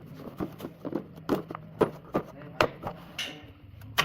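A run of sharp, irregular knocks and clicks, two or three a second, over a low steady hum.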